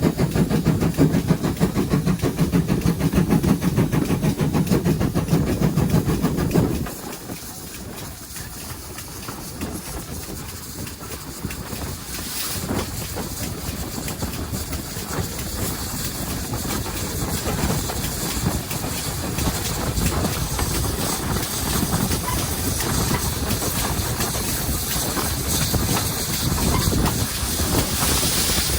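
Steam locomotive 7714, a GWR pannier tank, on the move: a loud, low, rhythmic working sound for about the first seven seconds that drops away suddenly. Then a quieter, steady rumble and hiss of the train running on, slowly growing louder towards the end.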